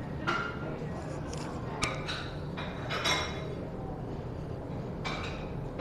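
Eating sounds: about six short clicks and clinks, spread out, like cutlery touching a plate, over a steady low hum.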